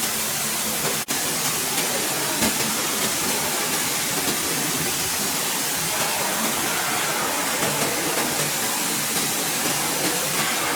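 A steady hiss, cut off for an instant about a second in.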